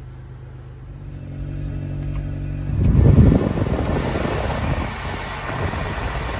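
Subaru Sambar kei truck's small four-cylinder engine idling steadily; its revs rise a little about a second in. About three seconds in, a loud rushing noise takes over and carries on over the engine.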